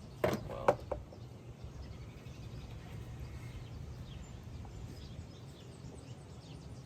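A few sharp metallic clinks of hand tools and parts in the first second, then a steady low background hum with faint bird chirps.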